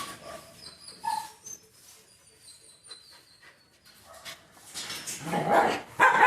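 A dog whimpering with a few short, thin whines, then a louder burst of sound near the end.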